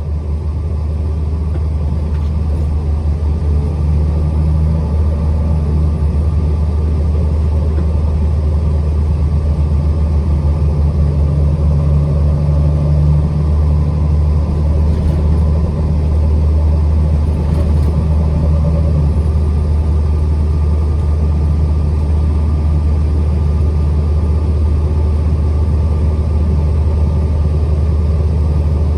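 A truck driving on the road: a steady low engine and road rumble, with a hum that comes and goes and shifts a little in pitch.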